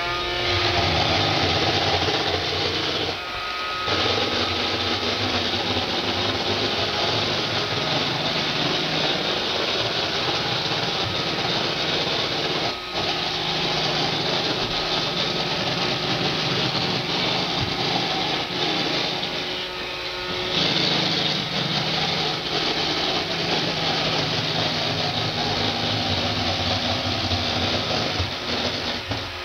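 iRobot Roomba 560 robot vacuum running on a hardwood floor with a loud, steady rattling clatter from its motors and brushes, dropping briefly a few times. The rattle is a fault that is much louder on hardwood than on carpet.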